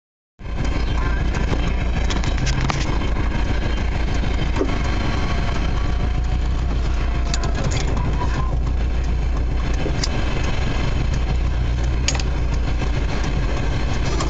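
Steady low rumble of a car engine idling, heard from inside the stationary car, over an even hiss and a few faint clicks.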